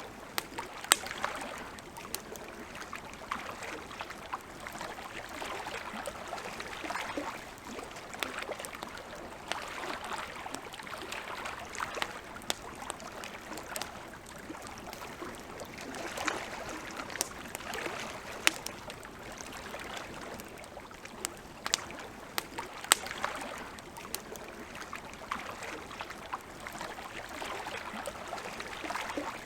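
Campfire crackling, with irregular sharp pops, several markedly louder than the rest, over a steady hiss.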